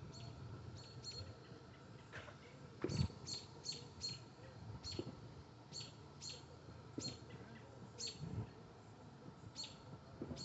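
A bird chirping over and over, short sharp chirps roughly once a second, with a few soft low thumps underneath.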